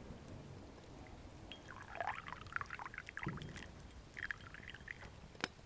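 Hot tea being poured into a cup, starting about a second and a half in, with a shorter pour about four seconds in.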